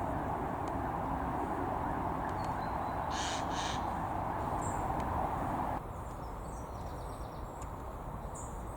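Eurasian jay giving two short, harsh screeches about three seconds in, over steady background noise that drops away abruptly about six seconds in.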